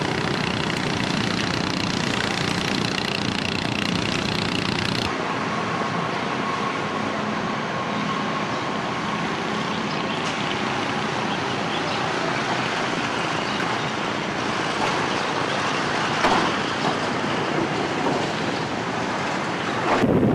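Fishing boat's engine running under heavy wind and sea noise, a dense steady din that changes character abruptly about five seconds in, with a brief louder surge near the end.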